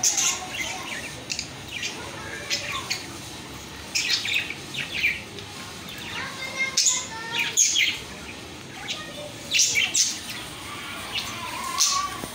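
A bird, or birds, chirping: short, sharp, high-pitched calls repeated at irregular intervals, some in quick pairs.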